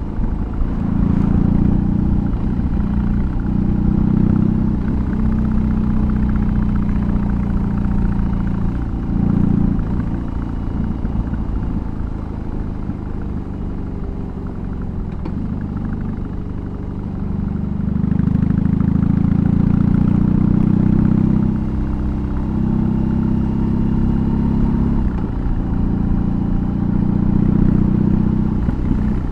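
BMW R18's 1802 cc boxer twin running through a custom exhaust while riding: pulling loud with a few brief dips, easing off to a quieter run about ten seconds in, then opening up loud again a few seconds before the halfway point of the second half.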